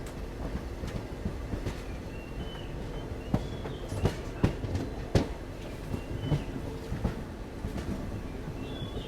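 Passenger train running on the track: a steady rumble with wheels clicking over rail joints, a run of sharper knocks in the middle, and several brief high squeals from the wheels.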